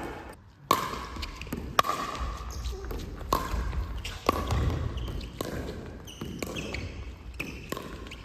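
A ball being struck and bouncing: sharp knocks at an uneven pace of about one a second, each with a short ring.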